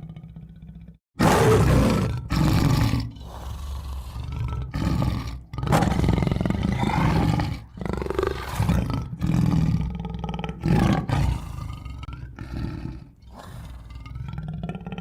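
Tiger roaring in a series of loud roars. They start suddenly about a second in, after a brief silence, and are strongest through the first half, with quieter, lower roars near the end.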